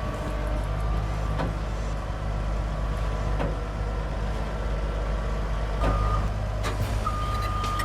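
Heavy truck's diesel engine running with a steady low rumble, and a reversing alarm starting to beep near the end in long, even tones, with a few scattered knocks.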